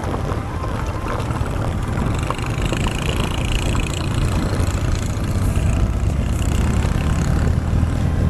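Honda Transalp XL650V's V-twin engine running steadily while riding on the road, with wind noise over the camera.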